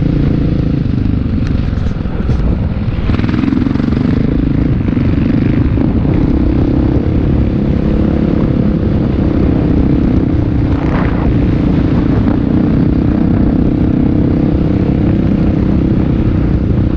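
Motocross motorcycle engines running, a loud steady drone.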